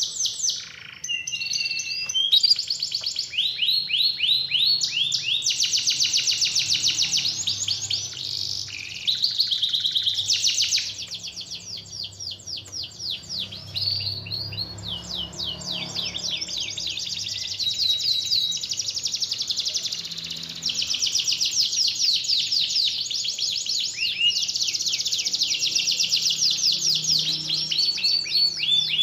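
Domestic canary singing a long, continuous song of fast trills, each phrase a rapid run of repeated notes, moving from one phrase to the next with brief breaks and a softer passage near the middle.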